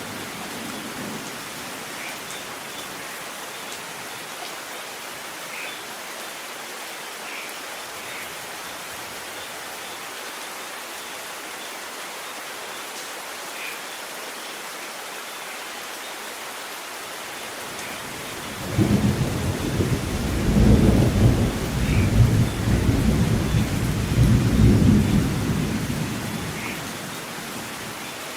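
Steady rain falling in a thunderstorm, with now and then a faint drip tick. About two-thirds of the way through, a long low rumble of thunder starts suddenly, rises and falls for about eight seconds, and dies away near the end.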